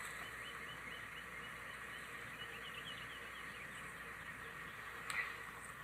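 Faint bird chirping: a quick series of short, high chirps in the first half, over a steady outdoor background hiss. A single sharp knock about five seconds in.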